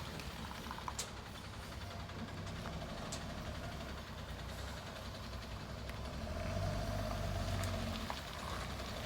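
Garbage truck engine running steadily, growing louder for about two seconds in the second half before settling back, with a couple of short sharp clicks in the first few seconds.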